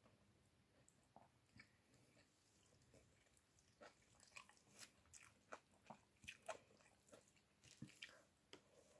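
Faint chewing and wet mouth smacks of a person eating rice and chicken pochero by hand, with scattered soft clicks that grow more frequent about halfway through.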